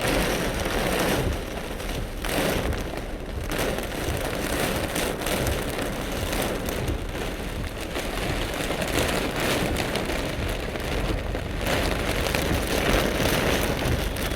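Heavy rain falling, a steady dense hiss that thins briefly twice.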